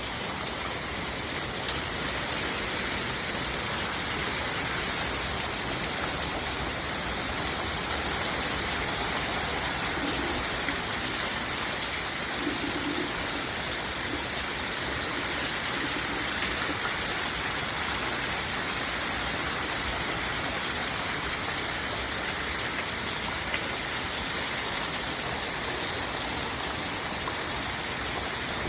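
Heavy rain falling steadily during a summer thunderstorm, an even hiss.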